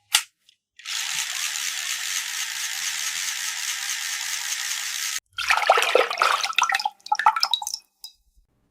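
Water running or pouring steadily for about four seconds, then cutting off abruptly, followed by a couple of seconds of splashing and clicking of small plastic toy pieces in water.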